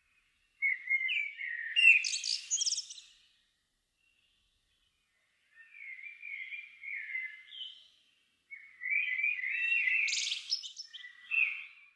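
A songbird singing three separate phrases of warbling and high twittering, the middle phrase quieter than the other two.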